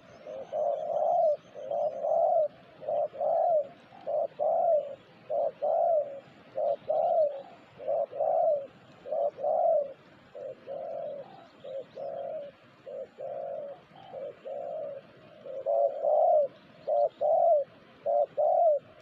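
Spotted dove (terkukur) cooing: a long run of repeated coos, about one and a half a second, growing softer for a few seconds past the middle before turning loud again.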